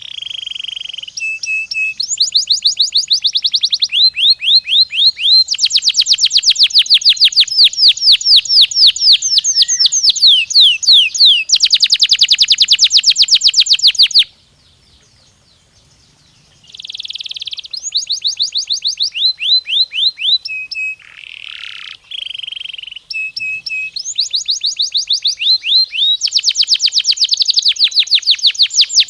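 Domestic canary singing: long, fast trills of rapidly repeated high notes, one trill running into the next, with a pause of about two seconds midway before the song starts again.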